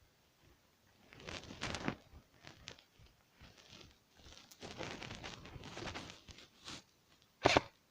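Rustling and crunching of footsteps through brush and dry vegetation, in two spells, with one short sharp knock near the end, the loudest sound.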